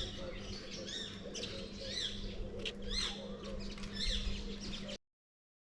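Several birds chirping and calling in a large aviary, quick arched chirps overlapping, over a steady low hum; it all cuts off suddenly about five seconds in.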